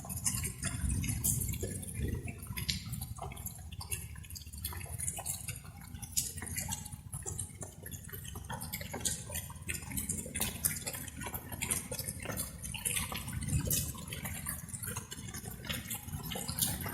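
Light rain with many individual drops pattering and dripping at an uneven pace, over a steady low rumble.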